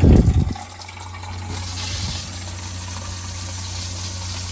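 Camper's electric fresh-water pump running with a steady low hum while water runs from an open bathroom tap, after a loud thump at the start. The pump runs because the tap is open, the sign that the water system is working as designed.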